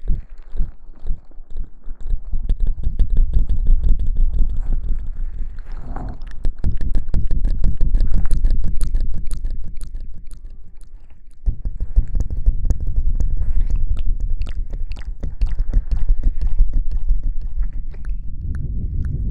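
Close-miked ASMR rubbing and scrubbing right on the microphone, as in simulated hair washing: a dense crackling over a deep rumble. It follows a few soft, evenly spaced thumps at the start, eases off briefly about two-thirds of the way through, then starts again suddenly.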